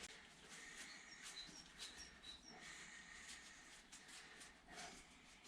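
Near silence: faint scattered clicks of light handling, with a short run of about six faint high chirps about a second in.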